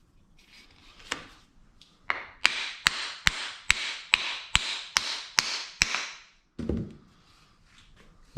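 Hammer striking: a single tap, then a quick, even run of about nine sharp blows, roughly two and a half a second, each with a brief ringing hiss, and one duller thud near the end.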